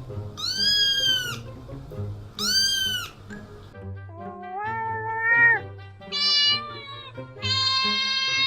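Kittens meowing about five times: two short meows that rise and fall in pitch, then three longer, steadier calls. Background music with a low bass beat plays underneath.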